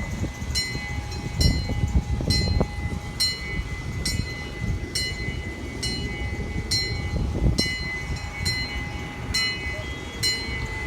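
Railroad crossing-signal bell ringing steadily, about one and a half strikes a second, each strike ringing on in several high tones, over a low outdoor rumble.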